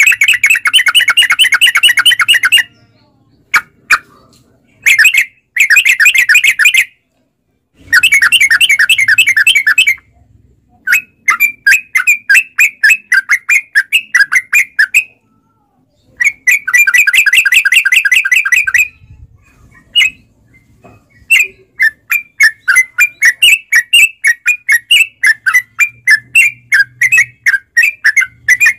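Yellow-vented bulbul (trucukan) singing: long, fast rattling phrases of repeated notes broken by short pauses, then runs of separate quick chirps in the second half. It is the lively, full song used as a lure to make other trucuk birds call back.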